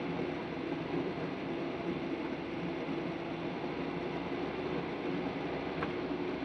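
Steady drone of a running engine with an even rushing noise and a low hum that holds one pitch throughout, and a faint click near the end.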